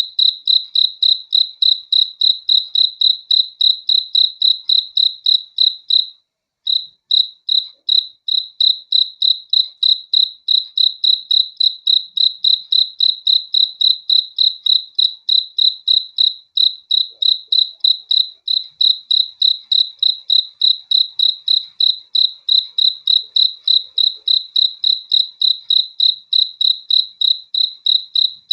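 A cricket chirping in a steady, even rhythm of about three high-pitched chirps a second, with a brief break about six seconds in.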